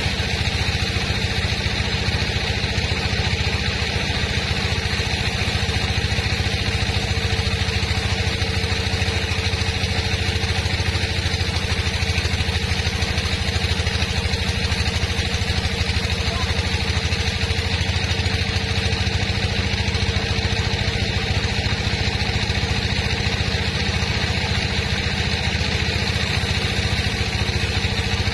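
Sawmill machinery running steadily, an engine's even drone that does not change in speed.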